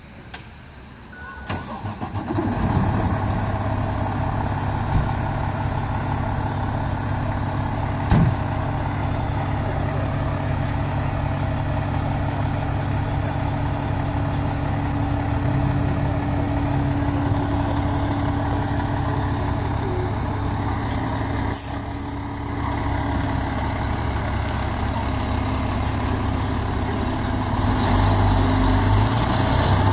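A fire truck's Detroit Diesel 8V71 two-stroke V8 diesel engine starts about two seconds in and then runs steadily at idle. A sharp click sounds once a few seconds later, and the engine speed rises near the end.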